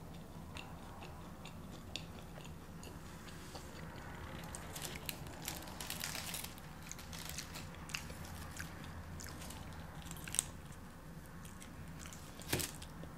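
A person chewing and biting fast food, with scattered wet mouth clicks and crunches. There is a louder crunch or click about ten seconds in and another near the end.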